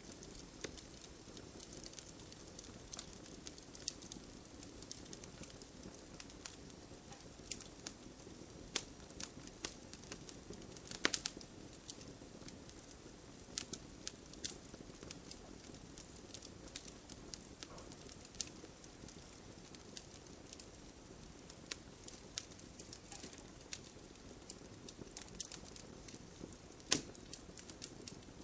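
Wood bonfire crackling, with scattered sharp pops at irregular intervals, the loudest about 11 seconds in and near the end, over a steady soft hiss of light rain.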